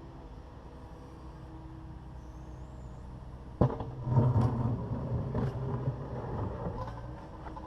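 Takeuchi TB260 excavator's diesel engine running steadily. A little over three and a half seconds in there is a sharp bang, then the engine works harder under hydraulic load for about three seconds, with several clunks of the bucket on broken concrete.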